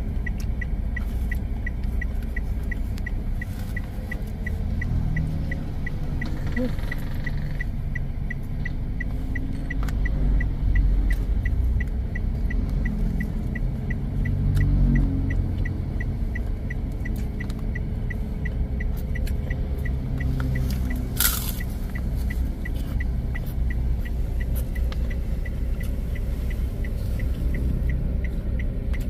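Low steady rumble inside a car, with a faint regular tick about twice a second running throughout. A single brief sharp sound comes about two-thirds of the way in.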